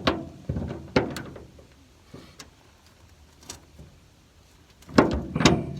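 Hand tools knocking and clanking: several sharp knocks in the first second or so, then a louder cluster of knocks about five seconds in.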